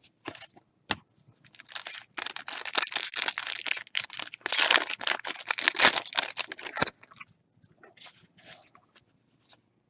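Crinkly rustling and sliding of trading cards and their packaging being handled, steady from about a second and a half in until about seven seconds, then a few faint taps.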